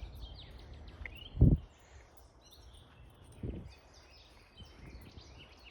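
Several woodland birds singing and chirping at once in short high phrases, with two low thumps, a loud one about a second and a half in and a softer one about halfway through.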